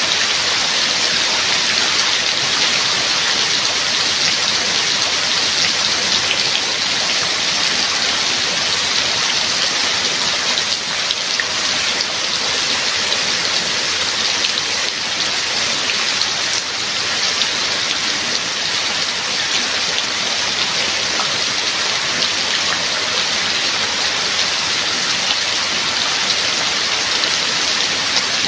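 Steady heavy rain falling, an even hiss with scattered drop patter.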